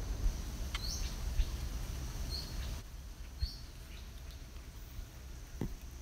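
Outdoor ambience: a bird gives about three short high chirps over a steady low rumble and a faint, steady high-pitched tone. The background drops a little about halfway through.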